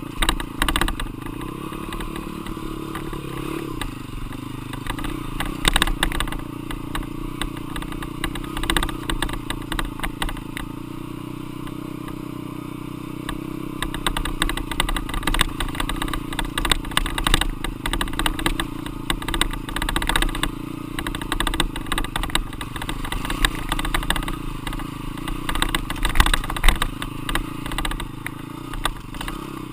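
Dirt bike engine running with rising and falling revs, mixed with frequent knocks and rattles.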